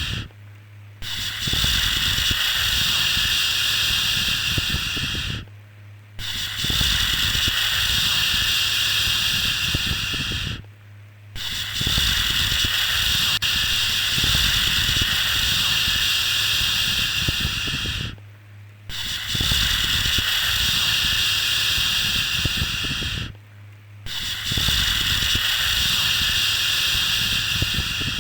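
A looping 'shhh' shushing sound for soothing a baby to sleep. Each hiss lasts about four to seven seconds, with a brief break of under a second between them, five times over.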